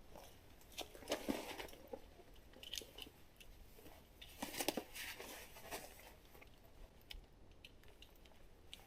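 Faint, irregular rustling and crunching in a few short clusters, with scattered light clicks.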